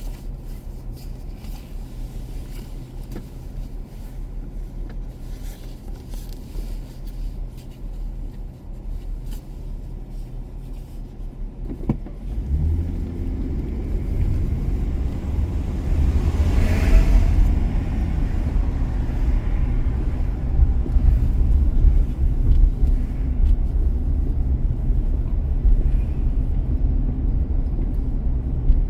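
Car driving with a low rumble of engine and road noise. About twelve seconds in there is a sharp click, and the rumble grows louder from then on, with a brief rushing sound a few seconds later.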